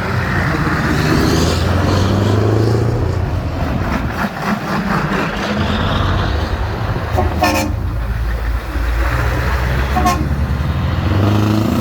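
Old trucks' engines running and pulling away, with a short horn toot about seven and a half seconds in.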